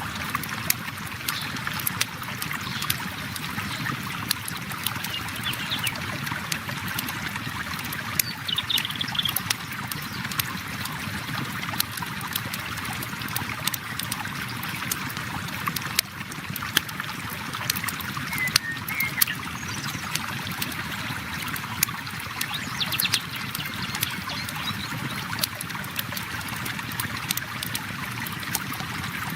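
A river flowing steadily with a campfire crackling over it in frequent small sharp pops. A few faint high chirps come through now and then.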